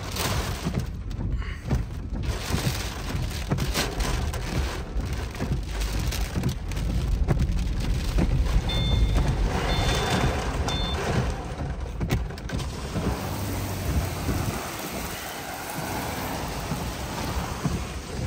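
Heavy rain from a wet microburst pelting a vehicle's windshield and body, heard from inside the cab, with gusting wind buffeting it in an uneven low rumble.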